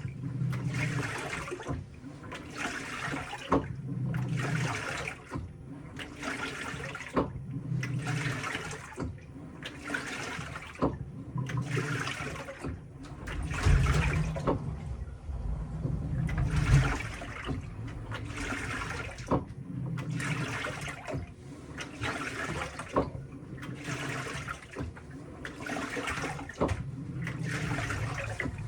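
Panasonic washing machine in its tub-cleaning cycle, churning water back and forth in regular swishes a little over a second apart, with a low motor hum under the strokes and one longer, heavier surge about halfway through.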